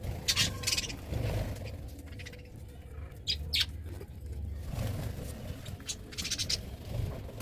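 Pet budgerigars chirping and chattering in short bursts, about three clusters of calls, over a steady low rumble.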